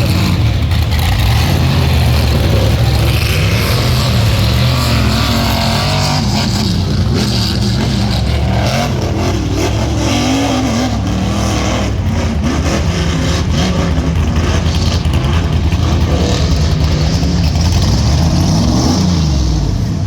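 Rock bouncer race buggies' engines revving hard, their pitch climbing and dropping again and again as they race.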